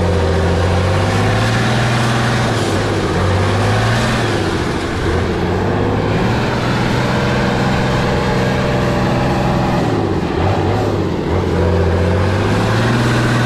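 Heavy off-road truck's diesel engine running hard under load, its pitch rising and falling as it is revved, dropping briefly about ten seconds in before climbing again.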